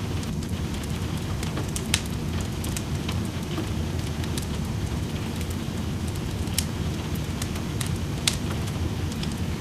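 Wood fire crackling in a fireplace, with a few sharp pops of burning wood over a steady rushing of rain.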